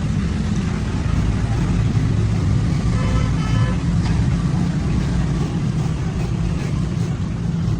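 Steady low rumble of motor vehicles running, like street traffic, with a faint short tone about three seconds in.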